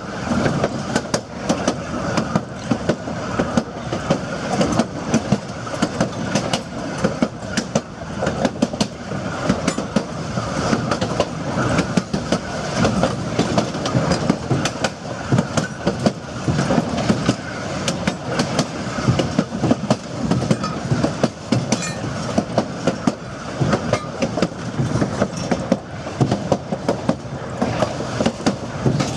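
Durango & Silverton narrow-gauge passenger car rolling along the track: a steady rumble with frequent, irregular clicks and clacks from the wheels on the rails.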